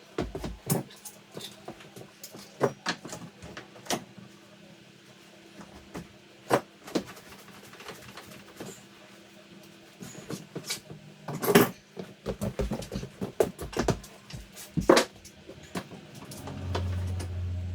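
Irregular knocks, taps and clatter of hands working with tools and wooden framing, with two louder knocks, one past the middle and one a few seconds later. A low hum starts near the end.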